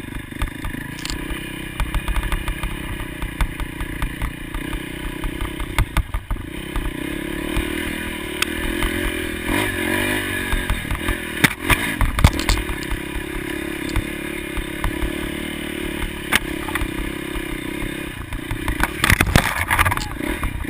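Motocross motorcycle engines running and revving, the pitch rising and falling, with scattered sharp knocks throughout.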